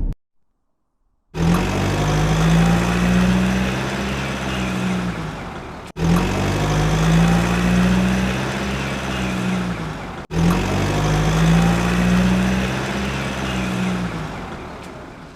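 Vehicle engine sound revving up, holding and settling, repeated three times in a row with abrupt cuts between, after a second of silence.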